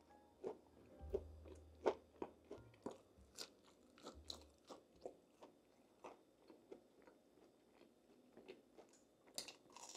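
Close-miked crunching and chewing as a person bites into crunchy food, a string of sharp irregular crunches about two a second, the loudest about two seconds in.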